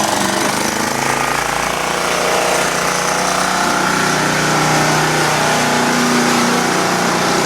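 Small pull-start gasoline engine running steadily just after a cold start on choke.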